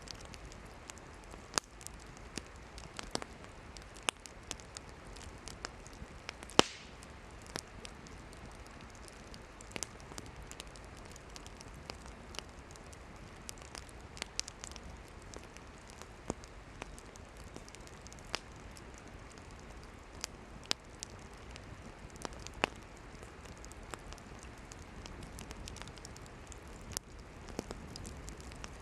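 Wood campfire burning, a steady low hiss of flames with frequent irregular sharp crackles and pops from the firewood; one pop about six and a half seconds in is the loudest.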